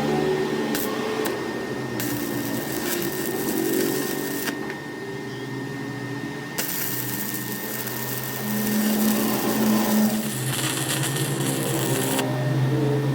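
A small electric machine motor running in a workshop, its pitch shifting every second or two, with spells of high hiss that start and stop.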